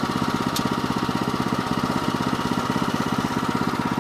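Woodland Mills HM122 sawmill's small gas engine idling steadily, with a single light click about half a second in.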